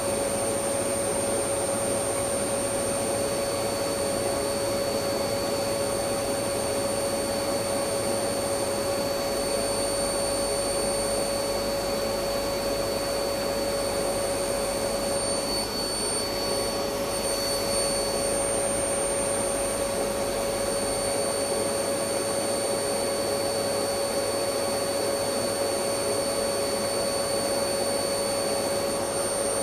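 Electric vacuum cleaner running steadily: an even rush of air with a constant motor whine over it.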